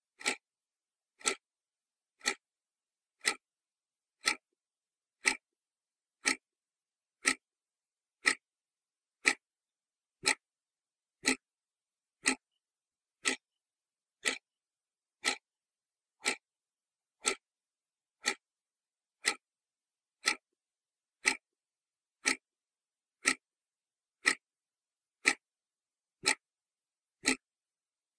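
Clock ticking steadily, one sharp tick about every second with silence between.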